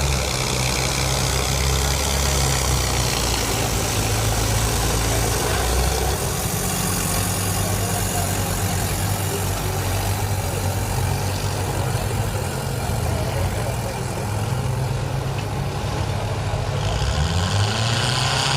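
Diesel tractor engine running steadily, its pitch shifting about six seconds in and rising near the end.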